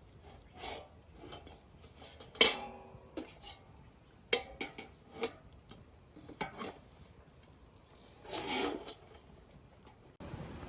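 Scattered scraping, rubbing and clinking of objects being handled, with one sharp clink that rings briefly about two and a half seconds in and a longer scrape near the end.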